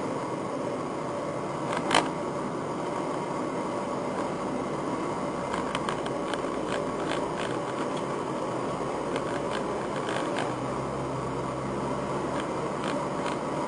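Nissan R35 GT-R heard from inside the car: a steady mechanical hum and hiss, with one sharp click about two seconds in and scattered light ticks in the second half. The abnormal noise the owner was chasing is meant to be gone here.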